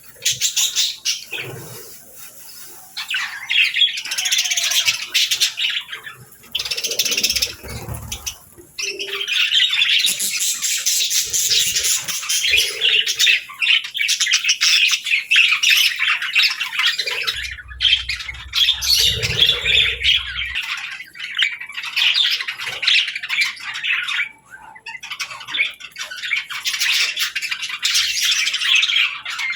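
A group of small pet parrots keep up continuous chattering, chirping and squawking, with short pauses. A brief low rumble comes a little past the middle.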